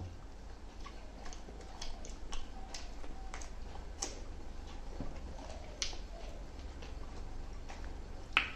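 Close-up eating sounds: chewing and lip smacking on roast chicken meat, heard as irregular sharp wet clicks, with one louder smack near the end.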